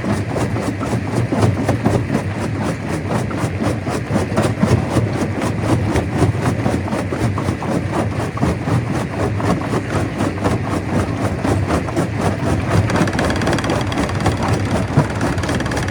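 Stone crusher machine running loud and steady, with a dense, rapid rattle of knocks. Near the end a steady high whine joins in.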